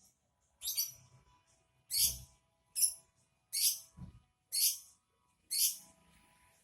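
A caged songbird giving short, sharp high chirps, about one a second, six in all.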